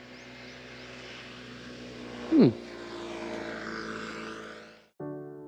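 A steady motor hum, like a propeller or small engine, with a loud, fast downward sweep about halfway through. The hum fades out near the end and piano music starts.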